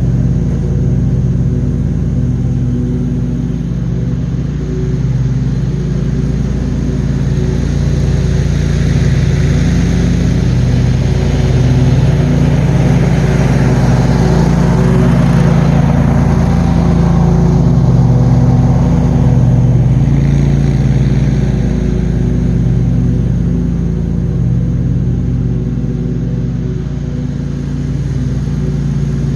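Engine of a John Deere QuikTrak 652R stand-on mower running steadily at mowing speed, with a rushing noise that swells and fades in the middle.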